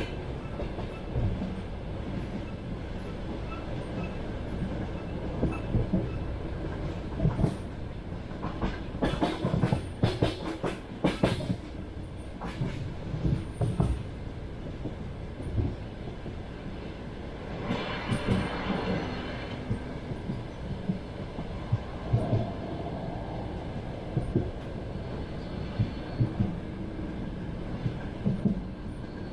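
Passenger train carriage rolling along the track, heard from inside: a steady low rumble with clusters of wheel clacks over the rail joints, and a brief higher-pitched grinding noise a little past the middle.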